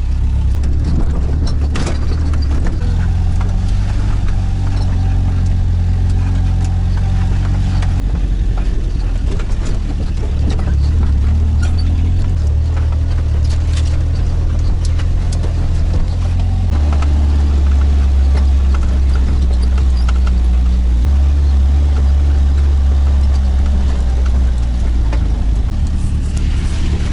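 Car engine running while driving over a rough road. Its note shifts in steps several times, with scattered short knocks and rattles.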